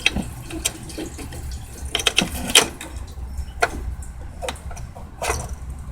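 Irregular clicks and light knocks of plastic parts being handled as the fuel pump assembly's clips are worked to free the pump. There are about half a dozen sharp clicks, with a cluster around two to two and a half seconds in.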